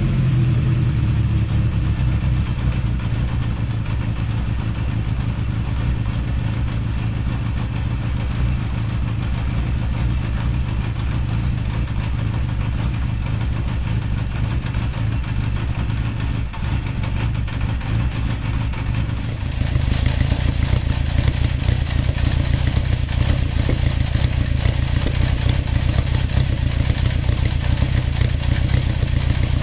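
Honda CB750 Four's air-cooled inline-four engine running steadily through its stock HM341 mufflers. About two-thirds of the way in the exhaust sound becomes louder and brighter.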